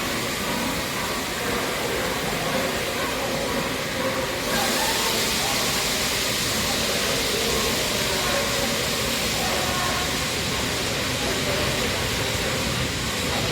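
Steam locomotive 60163 Tornado hissing steam over a low rumble, the hiss growing louder about four and a half seconds in and then holding steady.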